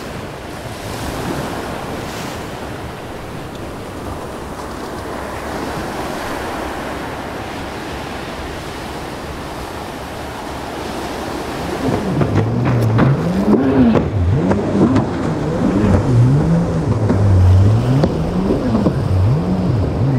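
Surf and wind noise on the microphone from open water. About twelve seconds in, a louder low tone starts and keeps rising and falling in pitch.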